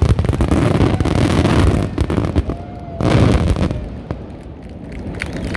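Fireworks bursting: dense crackling and booming that ease off, then another heavy burst about three seconds in before the sound fades away.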